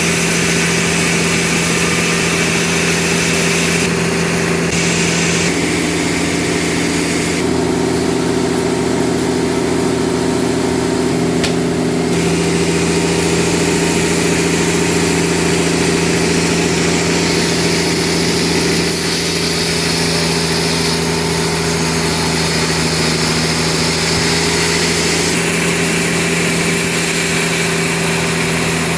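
Sawmill machinery running steadily: an engine hum with a high hiss over it that changes in tone several times.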